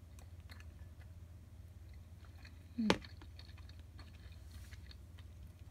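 A person quietly chewing a mouthful of simmered flatfish, with small wet mouth clicks. About three seconds in comes one short, louder mouth sound: a click with a brief falling murmur.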